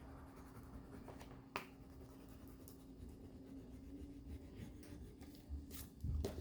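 Faint scratching of a crayon rubbed back and forth on paper, blending peach into red, over a steady low hum, with a single sharp click about a second and a half in.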